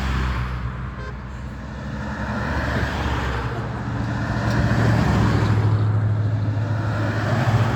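Classic cars driving past on the road, a steady engine drone with tyre and road noise that grows louder about halfway through as a car comes closer.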